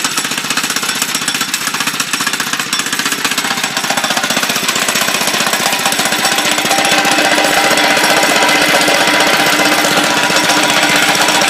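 97cc Doodle Bug mini bike's small single-cylinder four-stroke engine running on its own after a cold start from months of sitting, a rapid even firing. It grows slightly louder and steadier about two-thirds of the way through.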